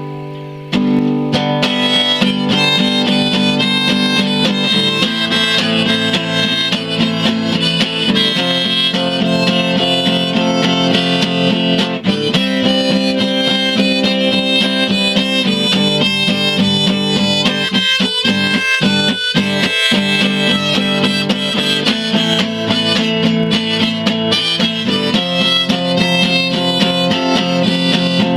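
Harmonica playing a melody over strummed guitar chords, an instrumental break in a song with no singing.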